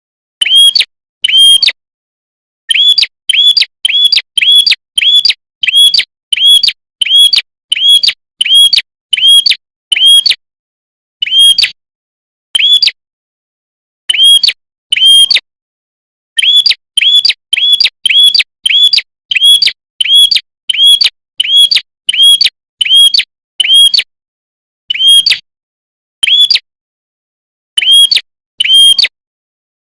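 Prenjak (prinia) lure call: short, sharp, identical chirps repeated in quick runs of about one and a half a second, broken by short pauses, with dead silence between notes, as in an edited call loop.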